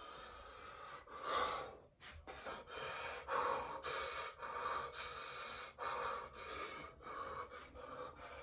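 A person gasping and breathing hard in quick, heavy breaths through the mouth and nose, about one or two a second, reacting to the burn of an extremely hot chip.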